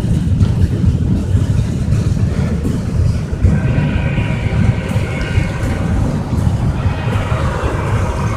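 Freight train cars rolling past with a steady low rumble of wheels on rail. A thin higher whine joins about three and a half seconds in, and a road vehicle passes close by near the end.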